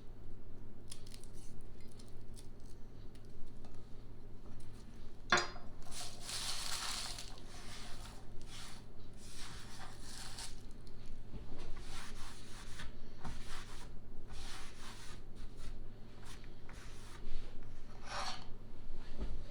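Kitchen handling sounds: a sharp knock about five seconds in, then stretches of rubbing and scraping, and a short clink near the end.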